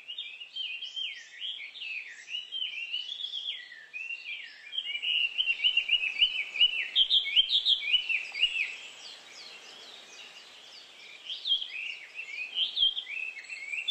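A dense chorus of birds chirping and twittering, many quick overlapping calls. It grows louder and busier about a third of the way in, eases off, then picks up again near the end.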